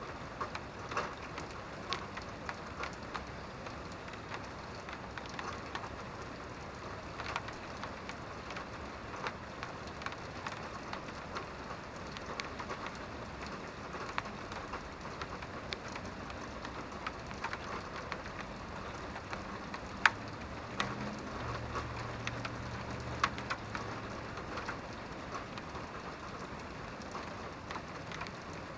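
Steady rain, with many separate drops striking close by in irregular sharp ticks and one much louder drop about two-thirds of the way through. Soon after it, a low rumble rises for a few seconds and fades.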